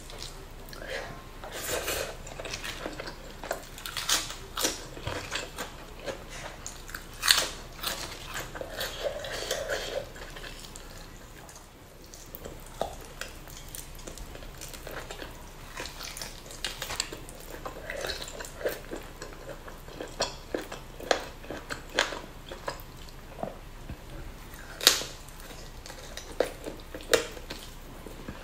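Close-miked eating sounds: a person biting and chewing spicy duck meat with rice, with irregular sharp clicks and smacks of the mouth, a few of them much louder than the rest.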